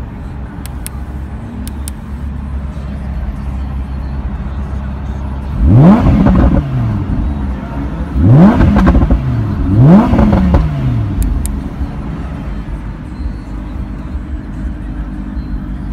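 Lamborghini Huracan's 5.2-litre naturally aspirated V10 idling, blipped three times about 6, 8½ and 10 seconds in. Each rev rises sharply in pitch, then falls back to idle.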